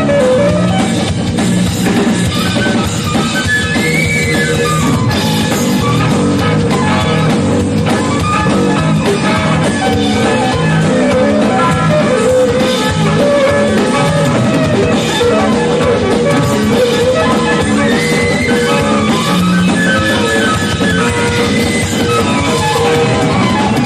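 Live band playing an instrumental rock number: drum kit and electric guitar to the fore over bass and keyboards.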